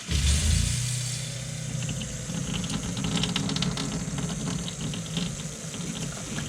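A camper's fresh-water pump starts suddenly and runs with a steady hum while an open faucet hisses and sputters. The faucet is spitting out the antifreeze left in the pump, along with air.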